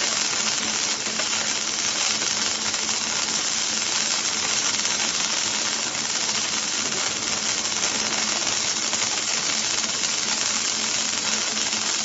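Circumferential seam welding machine at work: a steady, even hiss with a constant low hum underneath.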